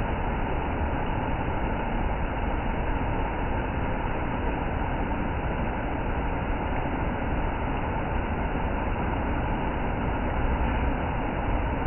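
Steady rushing roar of a waterfall, Buddha Falls, its water pouring down without a break.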